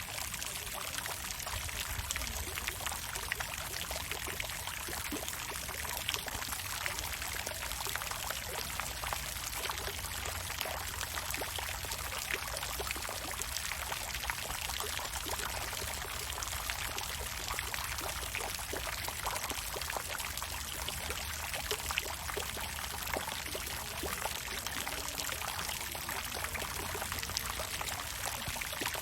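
Water fountain splashing steadily: a continuous patter of falling water with many small splashes.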